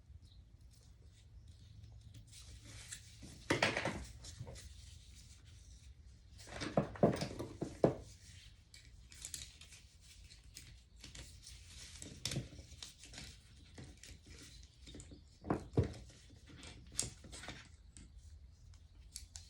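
Scattered clinks and knocks of hand tools and metal parts as a Honda Dax engine's kick-start spindle is worked out during teardown. The loudest knocks come a few seconds in and in a quick cluster about seven seconds in.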